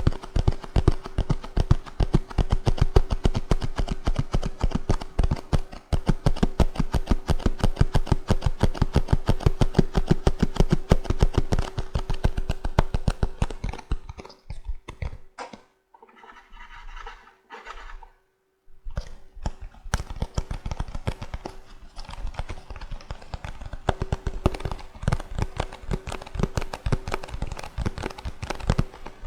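Fast, rhythmic tapping on a small cardboard trimmer box. The taps thin to a few scattered ones about halfway through, then pick up again, over a faint steady hum.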